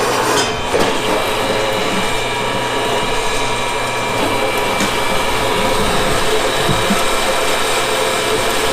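Electric power tool motor running steadily with a constant whine, as in cutting or grinding metal parts.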